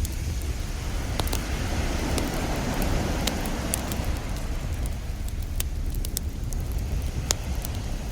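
Campfire crackling with frequent sharp pops and snaps, over a steady low rumble of ocean surf; a wave swells and washes in about two to four seconds in.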